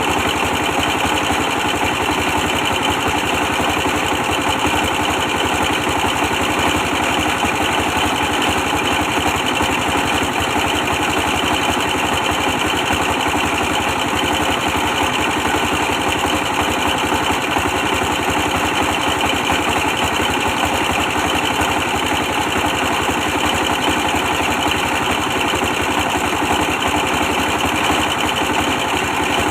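24 hp diesel engine running steadily, powering a brick press machine.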